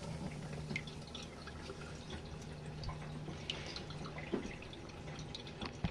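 Water dripping and trickling inside a small RV washing machine's tub: many faint, irregular drips over a low steady hum.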